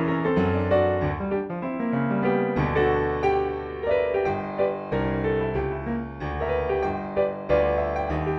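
Solo piano playing a Texas barrelhouse blues, a steady bass in the left hand under right-hand chords and riffs.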